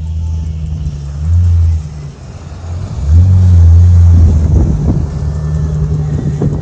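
Car engine running and swelling loudly twice: a short burst about a second in, then a longer one around three seconds in, followed by a few sharp cracks.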